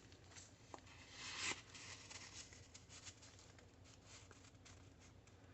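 Faint rustling of paper being handled, with a swell of rustle about a second in and a few light taps.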